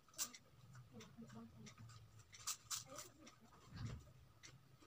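Faint close-up eating sounds: chewing and soft mouth noises with a few sharp clicks, and a low thump just before the end.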